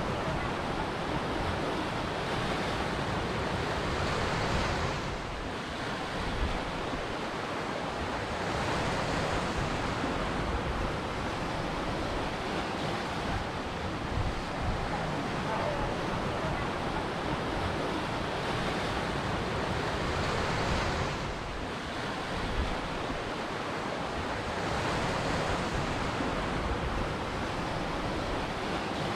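Ocean surf washing in continuously, easing briefly about five seconds in and again about twenty seconds in before swelling back.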